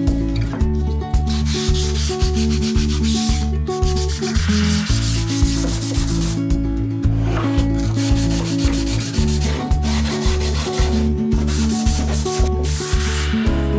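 Sanding in several passes of one to three seconds each, with short pauses between, over background music with a steady beat.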